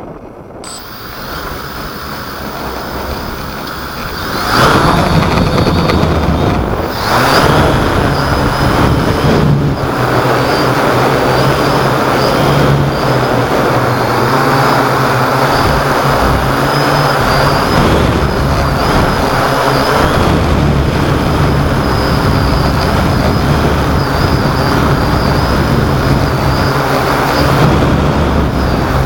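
Hexacopter's electric motors and propellers running with a steady multi-tone buzz, mixed with a broad rushing noise typical of strong wind on the microphone. The sound grows over the first few seconds, then jumps louder about four and a half seconds in and holds steady.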